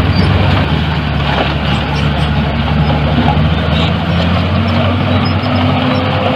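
Heavy diesel engine of earthmoving machinery running under load. Its note dips slightly and then rises again about four seconds in.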